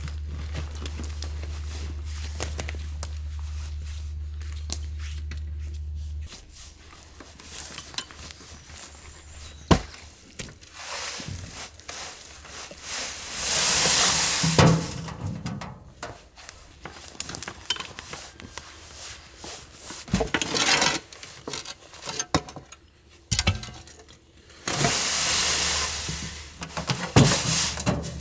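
A shovel scraping into sand and tipping it out, in two loud rasping stretches between scattered knocks. A steady low hum is heard for the first six seconds and then stops.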